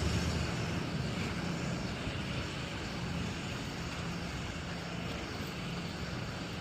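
Box truck engine running steadily, a low even drone.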